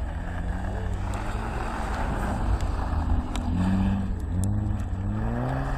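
Rally car engine accelerating hard, its pitch climbing, dropping at gear changes and climbing again several times, over a steady low rumble.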